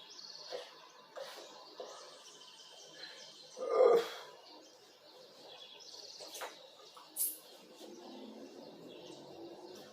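Small birds chirping in short repeated bursts, with a loud thump about four seconds in and a brief high squeak a few seconds later.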